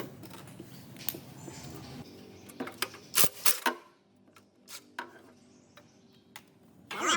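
A few sharp metallic clinks and knocks of tools or parts handled on metal, spaced apart, then quiet.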